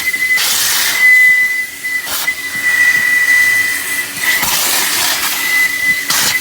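J.E. Adams turbo car-wash vacuum running with a loud, high-pitched whistle, steady in pitch, that cuts out and returns several times over a rushing hiss of air through the hose and nozzle.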